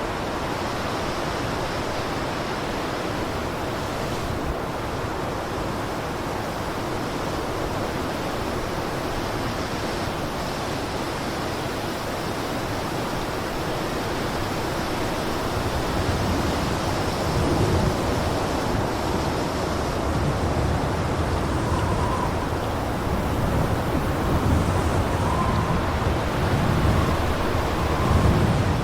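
Blizzard wind blowing as a steady rushing noise that turns gustier and louder, with more low rumble, about halfway through, and a few faint brief whistles near the end.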